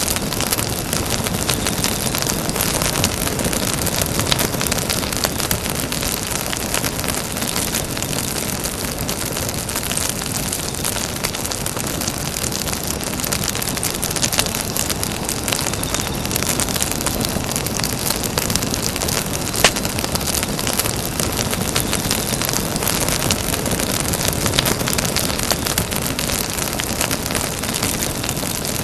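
Campfire burning: a steady rush of flame with frequent crackles of burning wood, and one sharper pop about twenty seconds in.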